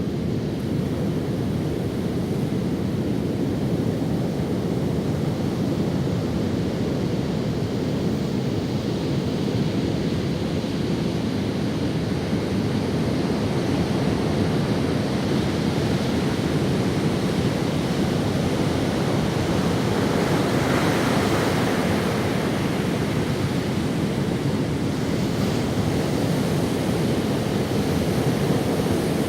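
Ocean waves breaking and washing up the sand in a steady surf, with a louder wave wash about two-thirds of the way through. Wind rumbles on the microphone.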